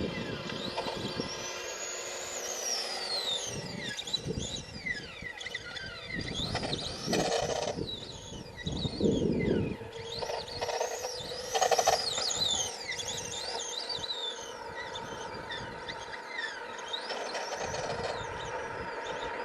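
An HPI Wheelie King RC monster truck's Traxxas 12-turn brushed electric motor whines, its pitch sweeping up and down again and again as the throttle is worked. An uneven rumble of tyres and drivetrain runs underneath, with a few louder surges.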